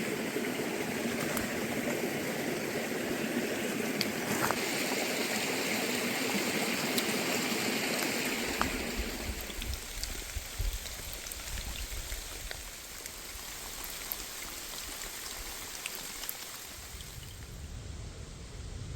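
Heavy rain pouring down, a steady hiss with scattered sharp drop ticks; about halfway through it becomes quieter and a low rumble comes in.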